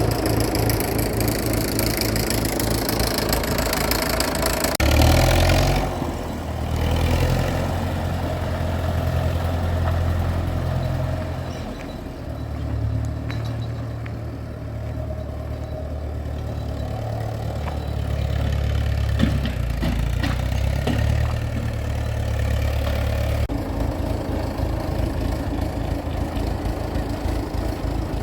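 Ford Major tractor engine idling with a rapid, even beat. About five seconds in the sound turns to a deeper, steady hum with less high clatter, and near the end it goes back to the first sound.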